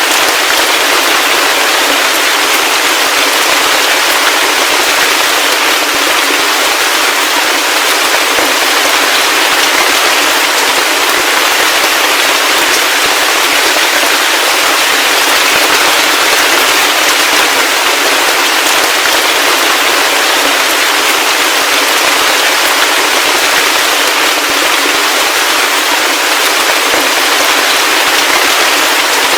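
Heavy rain falling steadily, a dense, even patter of countless drops with almost no low rumble.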